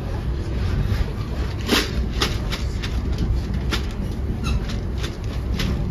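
Inside a moving NJ Transit Comet passenger coach: the steady low rumble of the car running on the rails, broken by several sharp clicks and rattles through the car.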